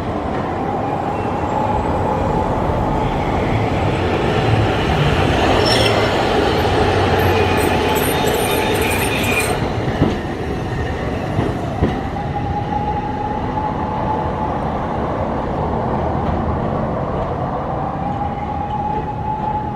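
Hiroshima Electric Railway streetcar running at the stop: steady rolling noise under a high whine that rises and holds level, once near the start and again in the second half. A couple of sharp knocks come about ten and twelve seconds in.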